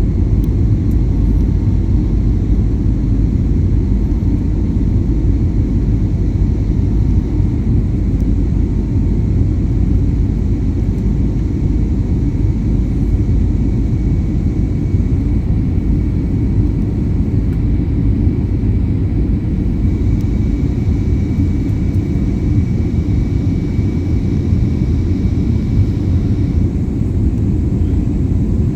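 Airplane taking off: a loud, steady low rumble of its engines with a faint high whine over it, unbroken throughout.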